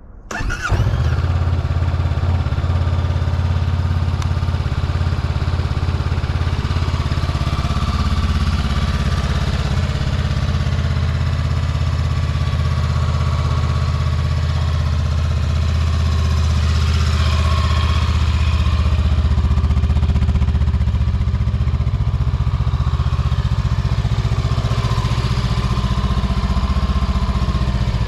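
Honda Rebel S motorcycle engine starting about half a second in and then idling steadily.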